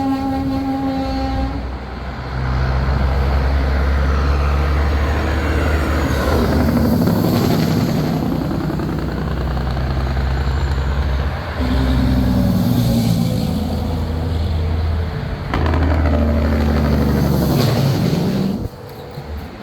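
Semi trucks driving past one after another, their diesel engines running with a deep, steady drone that swells and changes three times as each rig goes by. An air horn is sounding at the start and cuts off about a second and a half in.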